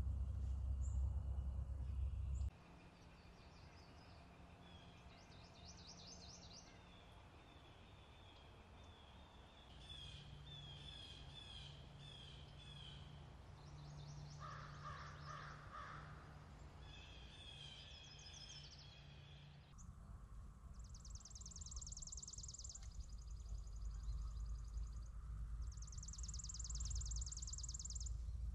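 Several birds calling and singing outdoors: repeated high trills and chirps, with a harsher cawing call about halfway through. Low wind rumble underneath.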